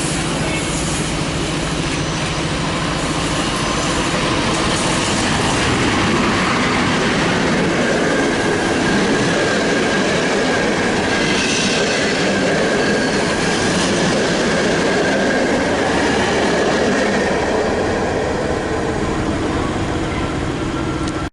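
Passenger train hauled by an EP07 electric locomotive rolling into a station: a steady rumble of coaches over the rails, with a thin high wheel or brake squeal through the middle. It cuts off suddenly at the end.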